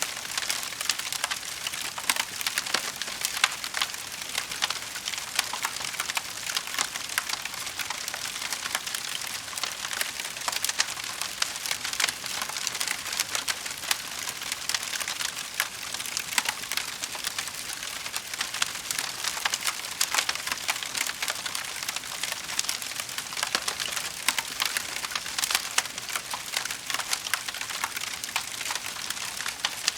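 Wood fire crackling in a fireplace: a steady, dense stream of small pops and snaps over a soft hiss.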